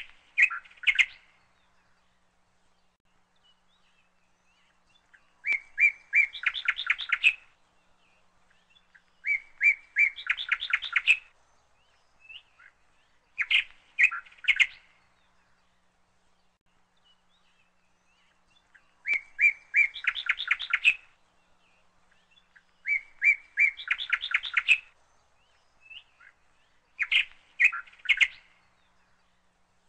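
A songbird singing the same phrase over and over: a few clear notes, then a fast trill, repeated every few seconds with short pauses between.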